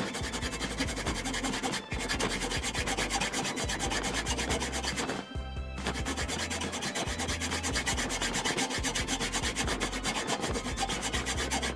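A rasp scraping against the edge of a turning wooden disc, truing it round, in fast continuous strokes with a brief pause about five seconds in.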